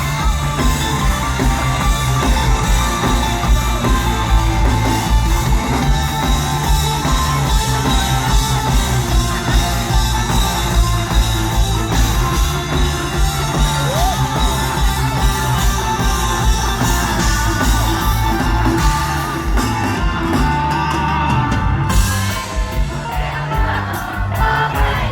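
Live band music with a steady bass-heavy beat and singing.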